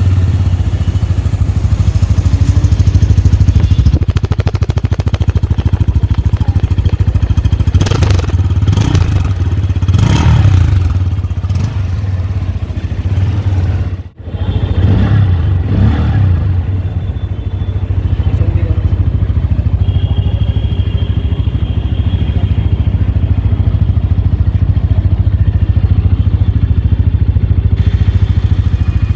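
Bajaj Pulsar N160's single-cylinder engine idling steadily through its exhaust, with several quick throttle blips that rise and fall in pitch around the middle. The sound briefly drops out about halfway through.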